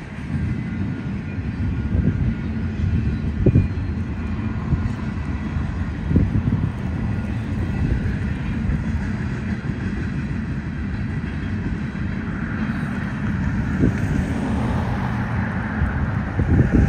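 Empty freight flatcars rolling past on the rails: a steady low rumble broken by sharp wheel clunks every few seconds. Near the end a pickup truck drives by close, with a rising rush of tyre and road noise.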